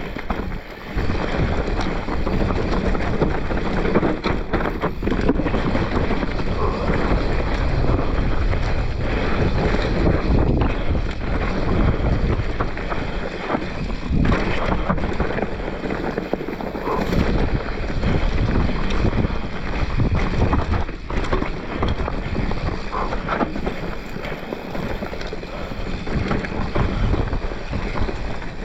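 Mountain bike descending fast on rough singletrack: wind rushing over the microphone, tyres rumbling, and frequent knocks and rattles as the bike hits roots and rocks.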